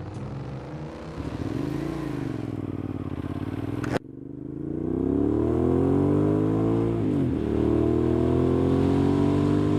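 Motorcycle engine revving and accelerating. Its pitch rises and falls twice, then after an abrupt break about four seconds in it climbs steadily, drops sharply once as it shifts gear, and climbs again.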